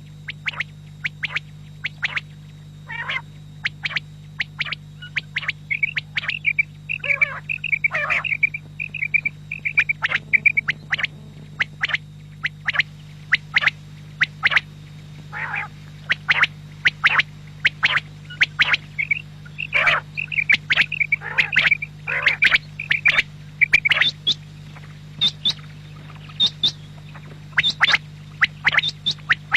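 Quail calling over and over: many short, sharp call notes, with runs of fast chattering trills from about six to ten seconds in and again from about nineteen to twenty-four seconds, over a steady low hum.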